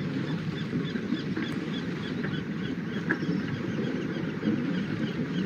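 A bird calling a fast, even series of short high chirps, about three or four a second, over a low steady rushing noise.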